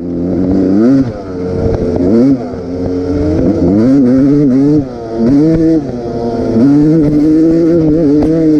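Motorcycle engine revving, its pitch rising and falling again and again, roughly once a second or so, with a couple of brief dips in loudness.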